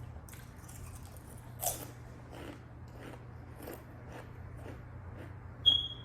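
Close-miked chewing of a Subway club sandwich: steady, wet chews about twice a second, with a louder crunchy bite a couple of seconds in. Near the end comes a short, high-pitched squeak, the loudest sound.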